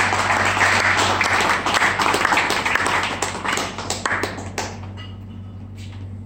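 A crowd of people clapping in applause. It dies away about four and a half seconds in, with a few scattered claps after.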